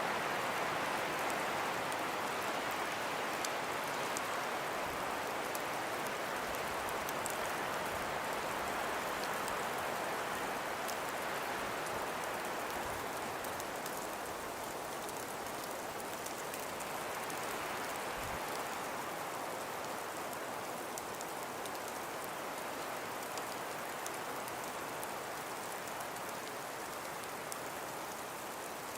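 Wind-driven snowstorm: an even hiss of wind that swells and eases slowly, with a faint scatter of fine ticks from snow striking surfaces.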